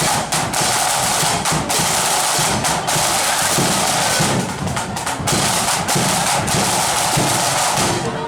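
A flute band's marching drums, snare and bass drums, beating a fast, steady marching rhythm with crisp rim clicks and rolls.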